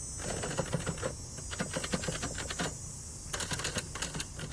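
A 1970s Adler Gabriele 25 manual typewriter being typed on: three quick runs of keystrokes with short pauses between them.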